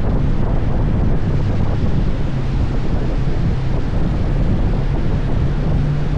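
Wind buffeting the microphone on a moving motorcycle, over a steady low engine hum.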